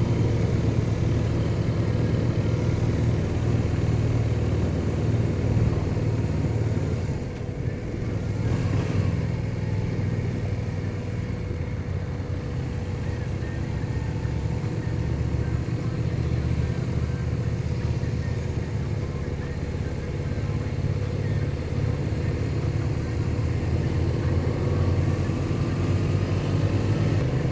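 BMW R1200 boxer-twin motorcycle engine running steadily while riding, with a brief easing off about seven seconds in.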